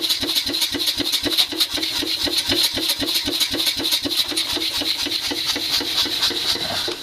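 Belt-driven power hammer running, its ram cycling in a fast, even rhythm of about five strokes a second, with the drive belts freshly tightened so it runs faster. It stops right at the end.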